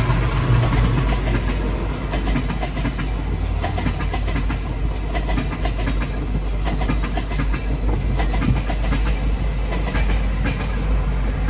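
Passenger coaches of a steam-hauled train rolling across a level crossing, heard from a car waiting at the barrier: a steady low rumble with the wheels clacking over the rail joints in quick succession.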